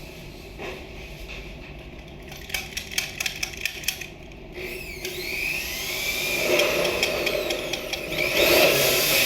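A run of rapid clicks, then an electric power drill runs from about halfway through, its whine rising and falling in pitch and getting louder near the end.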